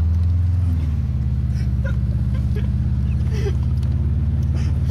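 Car engine running under way, heard from inside the cabin as a steady low drone that eases slightly lower in pitch about a second in.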